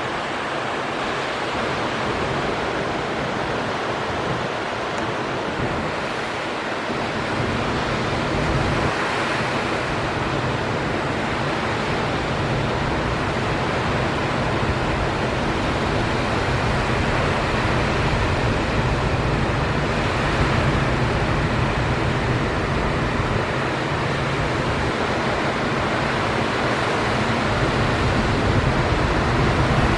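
Steady wash of ocean surf breaking, with wind rumbling on the microphone.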